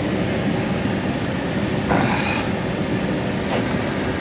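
Steady rush of a vehicle's heater fan running, with a brief scraping sound about two seconds in and a short click about a second later.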